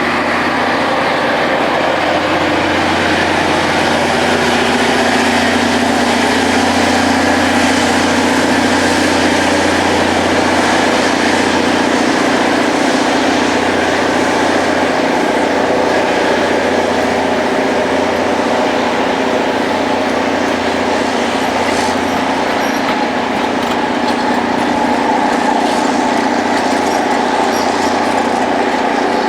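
Rail grinding machine at work on the track: its engines run steadily under a dense, loud grinding hiss of stones on the railhead.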